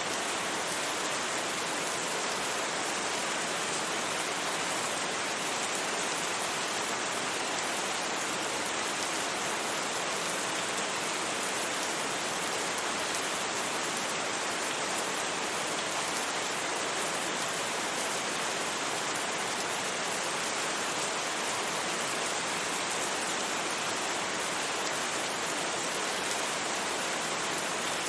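Steady rain falling, a constant even hiss with no thunder.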